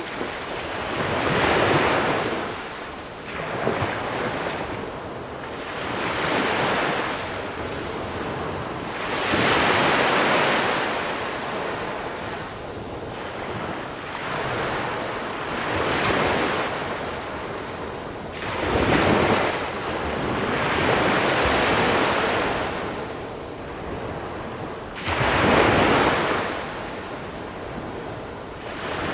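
Sea waves rolling in and breaking onto a shore of small pebbles, each wash swelling up and falling back every few seconds, about nine surges in all.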